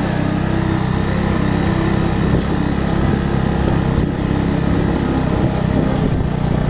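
Motorcycle engine running steadily under load as the bike climbs a hill road, its pitch holding even.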